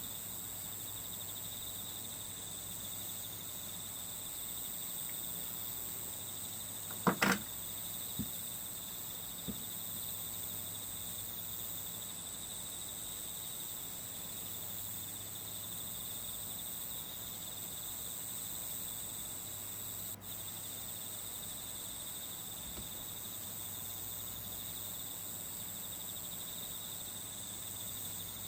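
A steady insect chorus runs high and even throughout. A sharp double knock comes about seven seconds in, the loudest thing here, followed by two lighter ticks.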